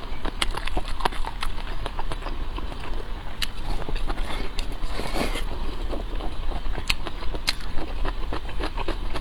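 Close-miked eating sounds: chewing with many irregular sharp clicks and smacks, and a denser, noisier stretch about halfway through.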